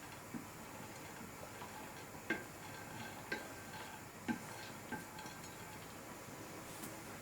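A handful of light metallic clinks and taps of a kitchen utensil against cookware, spaced about a second apart, with the loudest a little over two seconds in.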